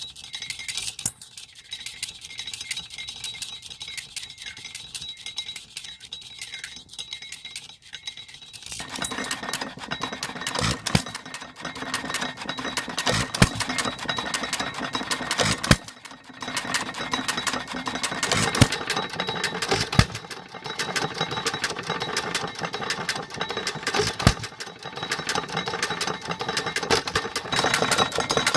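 Aermotor 8-cycle engine running with a fast mechanical clatter, which becomes fuller and louder about nine seconds in.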